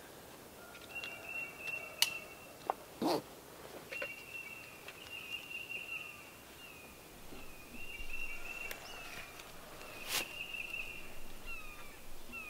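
A songbird singing repeated high trilled phrases, over a few sharp clicks and rustles as safety gear is put on.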